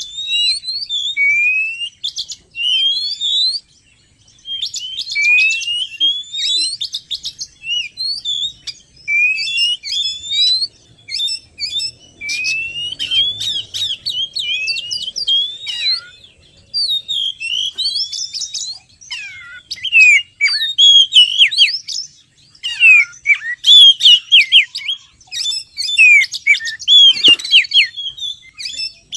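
Oriental magpie-robin (kacer) singing a fast, varied song of whistled phrases, many of them rising slurred notes, mixed with short sharp chattering notes. The song grows louder and denser in the second half. It is a recorded song used as a lure to draw wild magpie-robins in.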